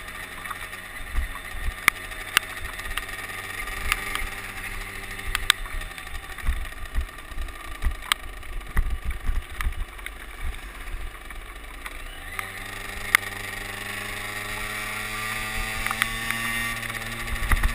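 Small trail motorcycle's engine on the move, with wind rushing over the microphone. Its note falls away about a third of the way in as the throttle is rolled off, then about twelve seconds in it picks up again and rises steadily as the bike accelerates.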